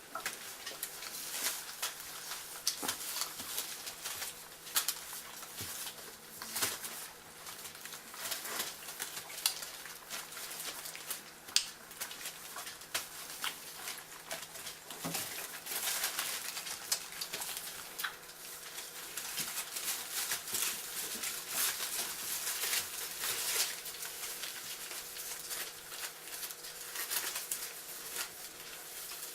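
Labrador puppies moving about with their mother, making a steady run of small irregular clicks, patters and rustles.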